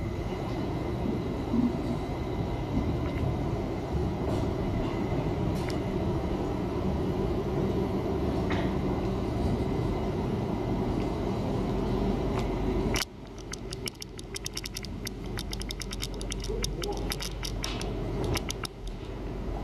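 A tram running on rails, a steady rumble. About thirteen seconds in it cuts off abruptly, giving way to quieter noise with many sharp clicks.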